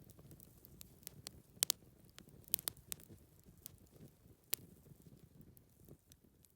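Campfire crackling: irregular sharp pops and snaps, a few louder ones among many small ones, over a soft steady low rush.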